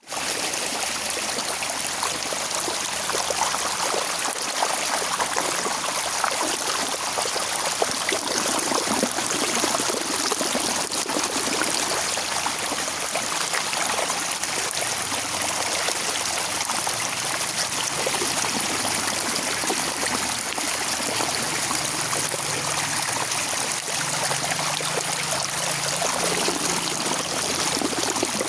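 Steady rain falling, with the dense patter of drops and water running and trickling.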